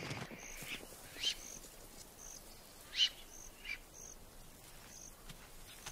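Faint wild ambience of insect and bird calls: short high chirps repeating about once a second, with a few brief louder calls, the loudest about three seconds in.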